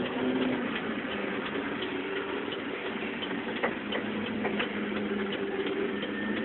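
Truck engine idling steadily, with a light ticking running through it.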